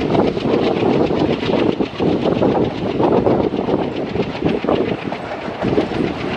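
Passenger train coaches rolling past at speed, their wheels clattering over the rail joints in a fast, even rhythm under a steady rumble.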